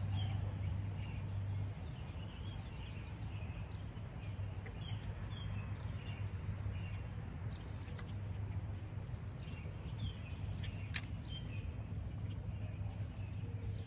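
Small birds chirping over a faint outdoor background, with a low steady hum that stops about two seconds in and a single sharp click near the end.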